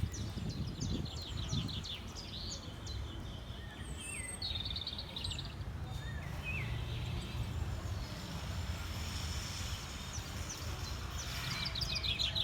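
Small birds chirping, in short runs of rapid high notes with a few rising whistled calls scattered through, over a steady low rumble.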